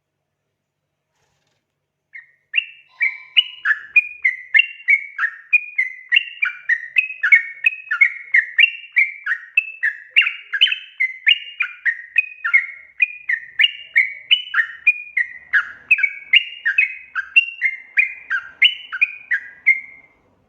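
Yellow-vented bulbul (trucukan) song: a long, unbroken run of quick, bubbly whistled notes, each slurring up or down, about two to three a second. It starts about two seconds in and stops shortly before the end.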